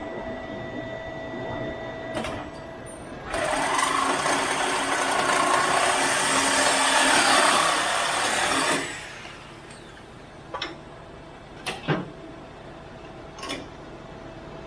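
A power tool runs steadily for about five seconds, starting a few seconds in and cutting off sharply, followed by three short metallic knocks.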